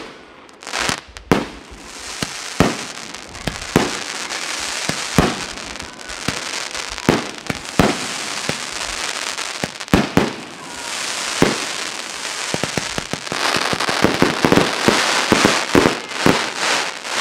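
Aerial fireworks firing: sharp bangs of launches and shell bursts about every half second to second, over a continuous crackling sizzle of glittering stars that thickens towards the end.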